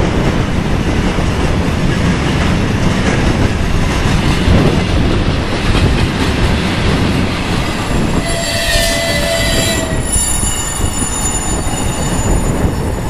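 Freight train of tank cars rolling past close by, its wheels rumbling and clacking over the rail joints. About eight seconds in a horn sounds for under two seconds, followed by a high-pitched wheel squeal.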